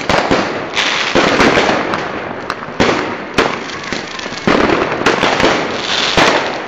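Fireworks going off: a string of sharp bangs at irregular intervals, each trailing into a noisy crackling wash as the shells burst.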